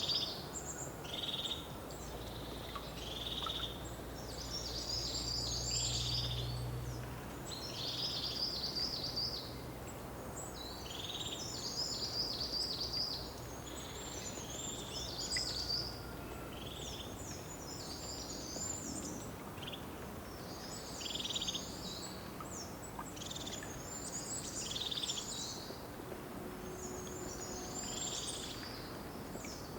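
Songbirds singing outdoors: short, high-pitched phrases repeated every second or two over a steady background hiss.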